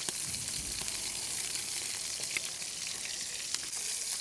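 Shrimp sizzling in hot cooking oil in a pan: a steady frying hiss with small crackles throughout.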